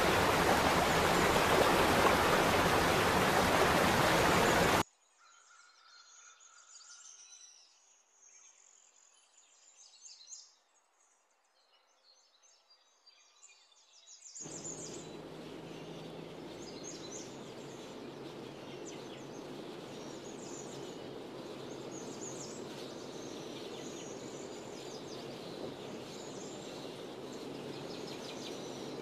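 Outdoor nature sound in three stretches: a loud steady rushing noise that cuts off suddenly about five seconds in, then faint bird chirps in near quiet, then from about halfway a steady rushing background with birds chirping over it.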